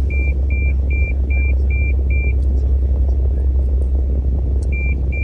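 A car's warning chime beeping in short, even, high beeps about two and a half times a second, stopping a little after two seconds in and starting again near the end, over the steady low rumble of the car.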